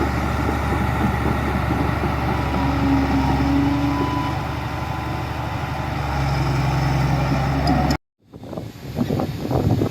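Heavy construction machine's diesel engine running steadily, then cut off abruptly about eight seconds in, followed by wind buffeting the microphone.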